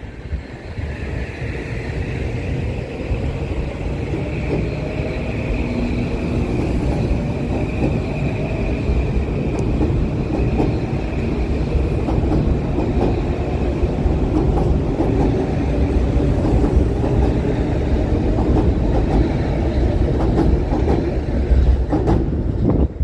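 Metro-North commuter train running past: steady rumble of wheels on rail with many short clicks and a high whine held above it, getting louder through the passage and cutting off sharply near the end.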